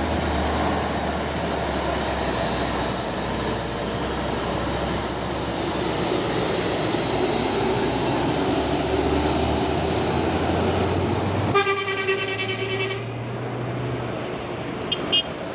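Heavy diesel truck engine running steadily with a thin high whine over it, then a horn blast of about a second and a half near the end.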